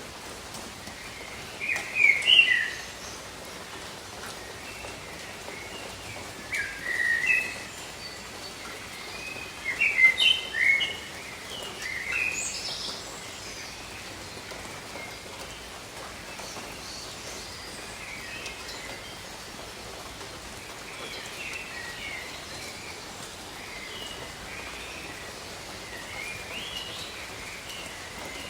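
Steady tropical rain with birds chirping over it in short phrases. The chirps are loudest in bunches about two, seven, ten and twelve seconds in, with fainter calls through the rest.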